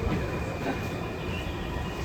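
Interior running noise of a Tokyu 5050-series electric train under way: a steady rumble of wheels on track, with a thin steady whine above it.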